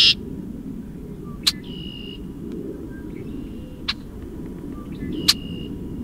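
Field recording of a red-winged blackbird between songs: three short, sharp notes, about a second and a half in, near four seconds and past five seconds, with thin whistled notes after the first and the last, over a steady low background rumble.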